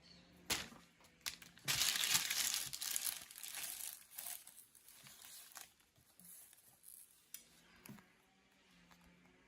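Plastic packaging crinkling and rustling as it is handled in an unboxing, with a sharp click about half a second in and a loud stretch of crinkling from about two to four seconds in, then smaller rustles that die away.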